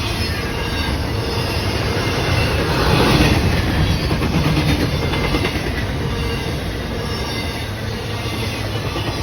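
A train rolling past, its steel wheels running on the rails in a steady noise that swells loudest about three seconds in.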